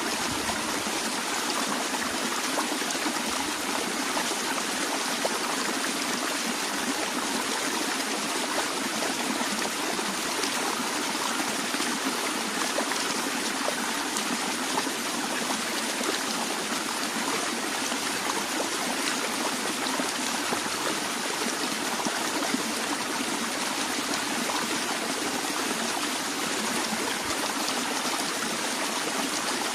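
Steady flow of a small stream over rocks, trickling and splashing evenly without letup.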